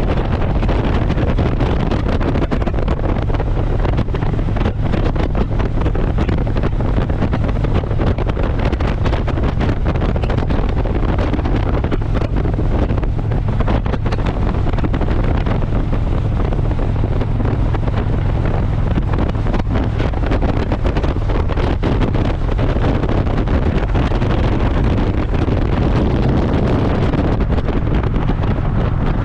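Steady wind rush on the microphone of a moving Harley-Davidson motorcycle, with the engine and road drone underneath.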